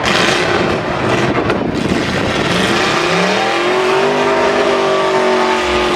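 Demolition derby truck engines running loud, then one engine revving up about two and a half seconds in and holding at high revs.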